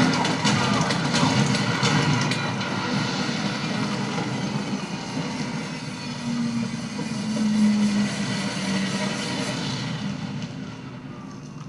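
Video game sound effects played through the Armaggeddon X-Bar 2 gaming soundbar: a dense, steady rumble with a few sharp knocks in the first couple of seconds, fading away over the last few seconds.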